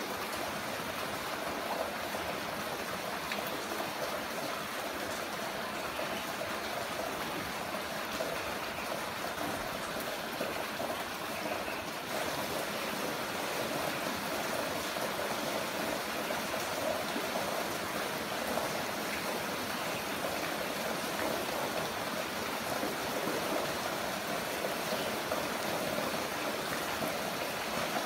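Heavy rain falling steadily, an even hiss of rainfall with no single drops standing out; it dips briefly and comes back a little louder about twelve seconds in.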